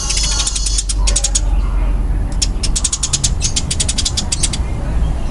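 Eurasian tree sparrow giving its fast, dense fighting chatter: rapid rattling strings of harsh high notes in two bursts, the second starting about two and a half seconds in.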